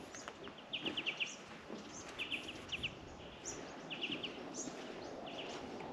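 Small birds chirping faintly outdoors, in short quick runs of three to five notes repeated every second or so over a low background hiss.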